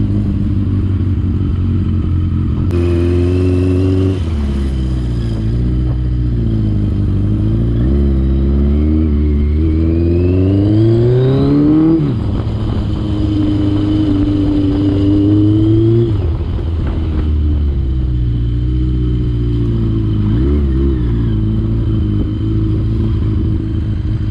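Yamaha XJ650's air-cooled inline-four running through an aftermarket M4 exhaust under way: the revs rise and fall, climbing steadily to about halfway and dropping sharply there and again a few seconds later, as at gear changes. Very loud.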